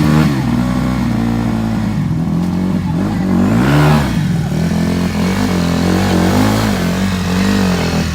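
Honda 50 dirt bike's small four-stroke single-cylinder engine running, revving up and back down once about four seconds in, with smaller wavers in pitch after that.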